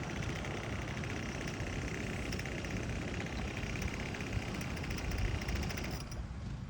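Small two-stroke weed-eater engine driving a kayak, running with a rapid buzzing beat over low wind-like rumble; the buzz drops away about six seconds in.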